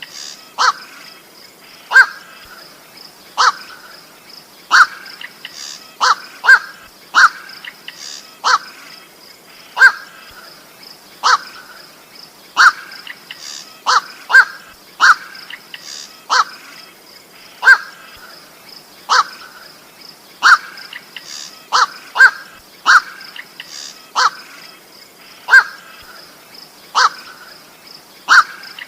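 Koak bird calling over and over, a short harsh single 'koak' about every second or so and sometimes in quick pairs, as played on a bird-lure recording. A faint steady high-pitched tone runs underneath.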